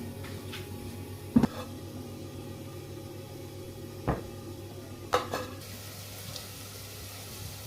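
Kitchen cooking sounds: four sharp clinks of a utensil against a pan or dish over a faint, steady background of sizzling.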